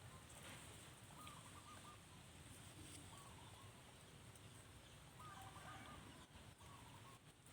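Near silence, with faint short animal calls, each a quick run of a few notes, coming every second or two.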